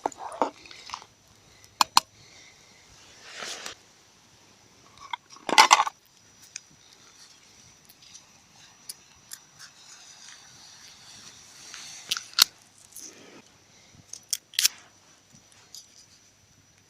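Wood campfire crackling, with irregular sharp pops and a few louder crunching noises.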